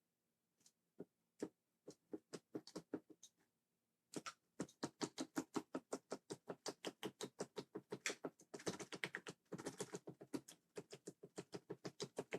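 Mechanical keyboard switches, Cherry MX Blue, clicked rapidly by hand. A few scattered clicks come first, then after a short pause a steady run of about five clicks a second.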